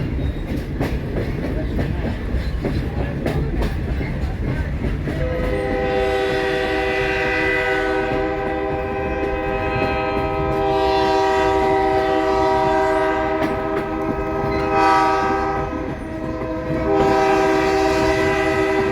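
Rumble and clatter of a moving passenger train, then about five seconds in the EMD F40PHM-2 diesel locomotive's multi-tone air horn sounds one long blast, drops off briefly, and sounds again near the end.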